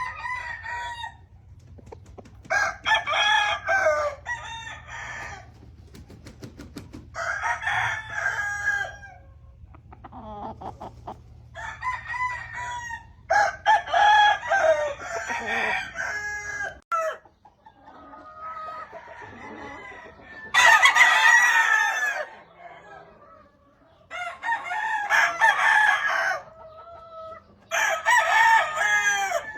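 Gamefowl roosters crowing one after another, about ten crows from several birds, some overlapping, with some clucking between them.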